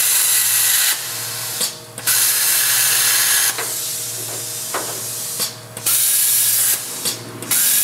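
Plasma cutter cutting sheet metal: loud bursts of hiss, about four of them, each a second or so long, starting and stopping as the trigger is pulled and released, over the machine's steady low hum.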